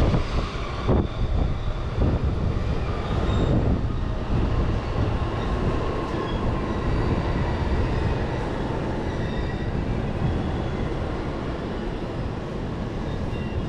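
Running noise of an Utsunomiya Line train heard from inside the carriage: a steady rumble of wheels on rail. For the first few seconds a train passing alongside adds a louder rush with a few sharp thumps, then the running noise settles.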